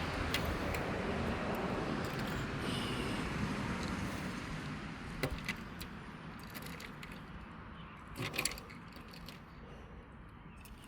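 Toy monster trucks rolling along a toy race track: a rumbling, rattling noise that slowly fades, with a sharp clack about five seconds in and a couple more about eight seconds in.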